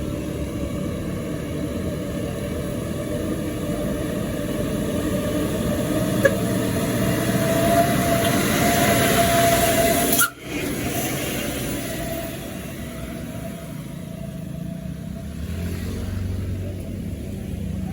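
Road traffic: vehicle engines running, with one passing close and getting louder until about ten seconds in, where the sound breaks off abruptly before the steady engine noise resumes.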